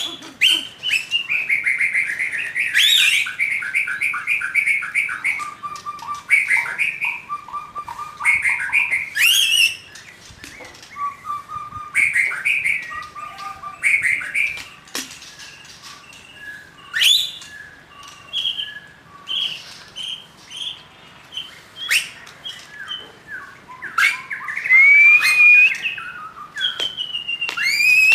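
Young white-rumped shama singing: loud, varied whistled phrases, rapid trills and sharp chirps, delivered in bursts with short pauses between.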